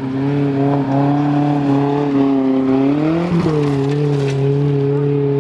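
Small SUV rally car's engine running hard at high revs as it drives past on a dirt stage. The pitch climbs a little, then drops sharply a bit over three seconds in, as at a gear change, and holds steady again.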